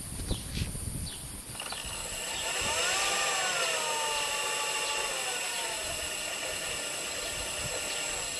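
Electric drive of a Turnigy brushless RC motor and Jeti controller running. A high steady electronic whine sets in about a second and a half in. Over it the motor's pitch rises and then slowly falls as it spins up and winds down.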